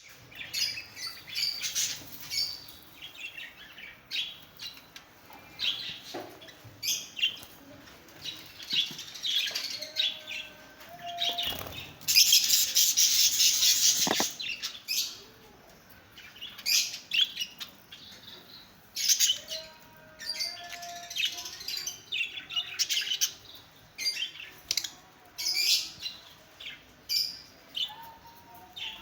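Fischer's lovebirds chirping and squawking, short sharp calls in quick succession. About twelve seconds in comes a loud rushing noise lasting about two seconds.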